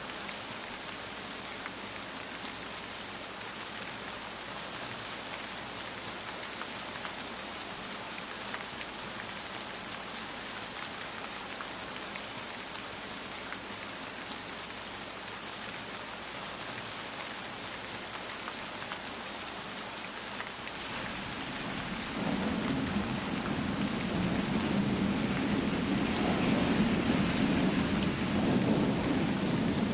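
Steady rain falling, an even hiss of drops. About two-thirds of the way in, a long low roll of thunder builds and keeps rumbling loudly.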